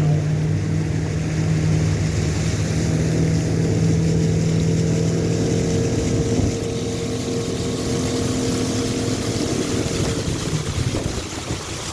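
Tour boat's motor running steadily underway, a low hum with wind and water noise over it; the engine hum fades out near the end.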